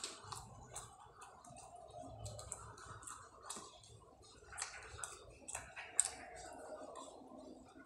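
Mouth sounds of someone eating rice and milkfish by hand: irregular sharp wet clicks and smacks of chewing, the loudest about six seconds in as a handful of rice goes into the mouth.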